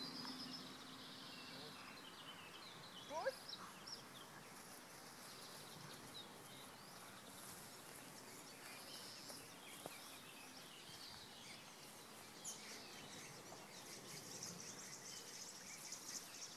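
Quiet outdoor ambience with faint bird chirps.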